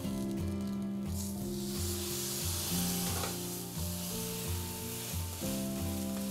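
Butter sizzling under a bread sandwich on a hot grill pan, starting about a second in as the buttered side is flipped down onto the pan and fading near the end. Background music with a steady beat plays throughout.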